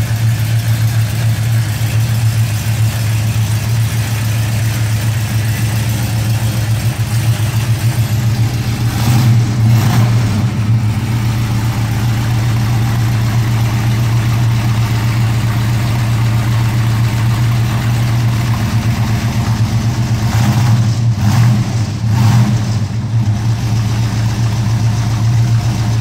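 1970 Ford Torino's 429 cubic-inch Cobra Jet V8, breathing through headers and dual exhaust, idling steadily. The revs rise briefly about nine seconds in and again around twenty-one seconds in.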